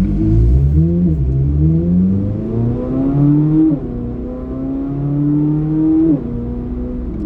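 A 2024 Corvette C8 Z06's stock flat-plane-crank 5.5-litre V8 pulls hard through the gears, heard from inside the cabin. The engine note climbs, then drops sharply at each upshift, four times in all.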